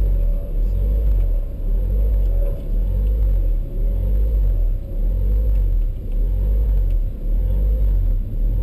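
Car engine and road noise heard from inside the cabin: a heavy low rumble whose level dips briefly about once a second.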